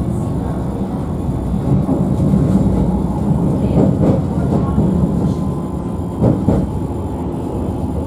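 Alstom Citadis tram running along its track, heard from inside: a steady low rumble from the wheels and running gear, with a few short knocks from the wheels about halfway through and again later.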